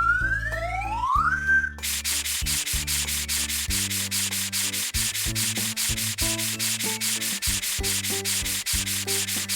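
Cartoon scrubbing sound effect: a fast, even rasping of rapid rubbing strokes that starts about two seconds in and cuts off suddenly at the end, over a low music backing. It opens with a rising whistle-like glide.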